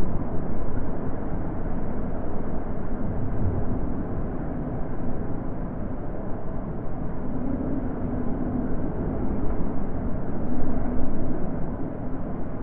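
Wind blowing as a steady low rushing, slowly swelling and easing.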